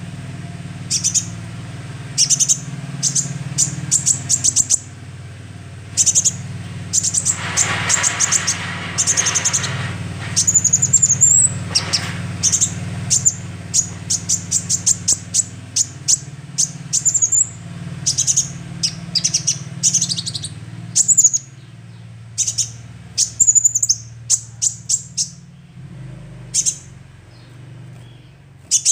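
Young sunbird (konin, a bird in green juvenile plumage) calling in bursts of quick, high, sharp chirps and short trills, some rising, over a steady low hum.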